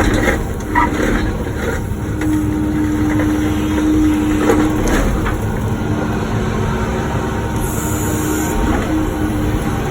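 Wacker Neuson ET145 excavator's diesel engine and hydraulics working under load, with a steady hum that strengthens for a couple of seconds midway. A few short knocks and scrapes come as the bucket breaks out the pavement edge.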